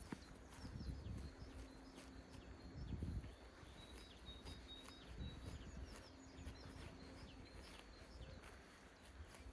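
Small birds chirping in quick, scattered short calls over a faint low rumble, with a louder low rumbling burst about three seconds in.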